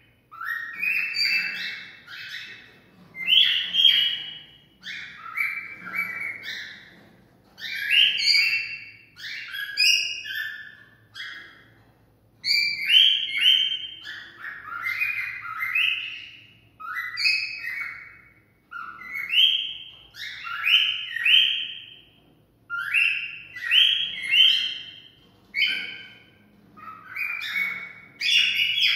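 Cockatiel singing its courtship song: a steady string of short, chirpy whistled phrases, a new burst every second or two.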